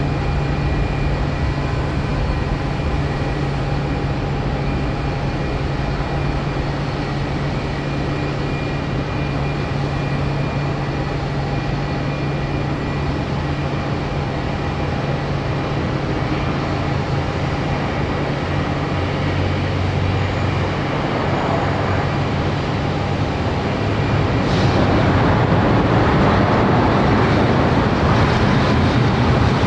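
Jet airliner engines running, a steady mix of tones and rushing noise. Near the end the noise swells louder and rougher.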